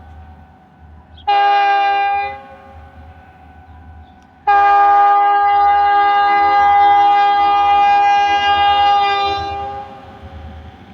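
Diesel locomotive air horn on an EMD SD40-series freight train sounding a chord: a short blast, then about a second and a half later a long blast of about five seconds. The short-then-long pattern matches the end of the long-long-short-long grade-crossing signal. A low rumble of the train runs underneath.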